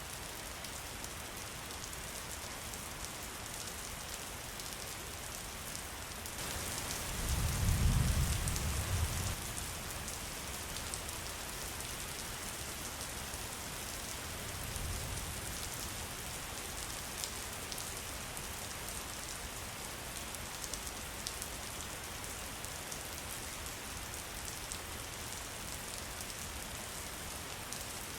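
Steady rain falling, an even hiss with fine drop ticks. A low rumble swells and fades about seven seconds in, with a fainter one around fifteen seconds.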